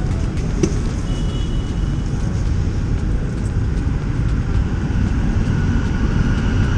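Motorcycle running on a city road, with steady engine, traffic and wind noise on the microphone.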